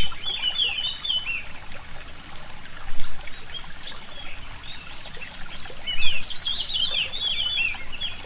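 A small stream trickling and gurgling steadily while a forest songbird sings quick chirping phrases, once at the start and again from about six seconds in.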